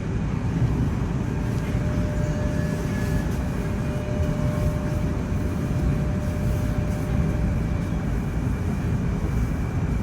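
Metro train running, heard inside the carriage as it comes into a station: a steady rumble of wheels and motors. A faint steady whine sits over it from the start until a few seconds before the end.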